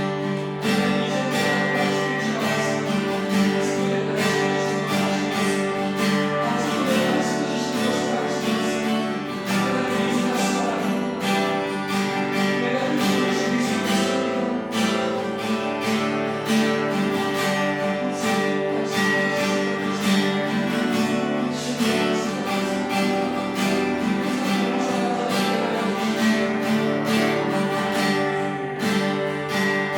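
Acoustic guitar strummed steadily, playing a worship song.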